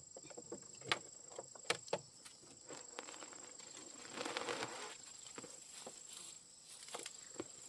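Insects buzzing in a steady high drone, with scattered sharp clicks and knocks and a short rustling swell about four seconds in.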